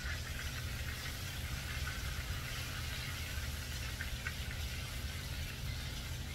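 Chicken thighs searing in hot fat in a pan: a steady sizzle with a few faint pops about four seconds in, over a low steady hum.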